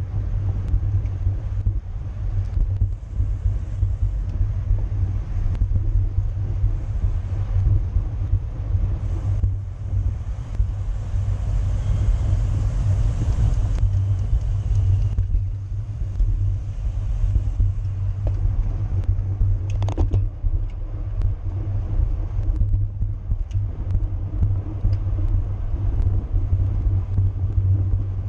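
Steady low rumble of wind buffeting the microphone of a camera riding along in a bicycle race, with a brief sharp sound about twenty seconds in.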